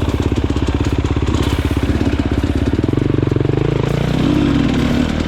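Enduro motorcycle engine running close up with a fast, even firing beat; it cuts in suddenly at the start, and the revs shift about three seconds in.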